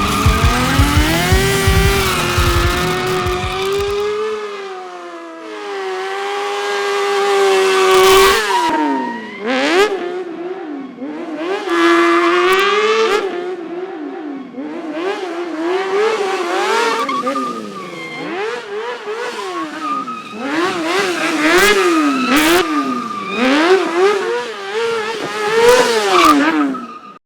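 Engine revving hard as a vehicle is drifted, its pitch rising and falling again and again, with tyre squeal. The revs swing up and down quickly in the second half and cut off suddenly near the end.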